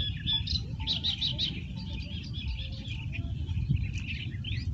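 Several small birds chirping and calling over one another in quick, high chirps, over a steady low rumble.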